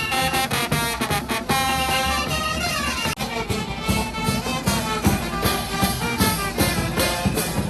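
Brass band music: trumpets and trombones playing a lively tune with sliding notes over a steady drum beat.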